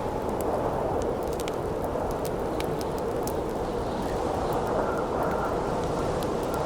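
Steady wind blowing through a snowy forest, with the scattered sharp crackles and pops of a burning wood campfire over it.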